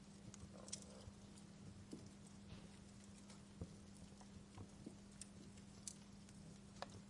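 Wood fire crackling quietly: sparse, irregular pops and snaps over a faint hiss.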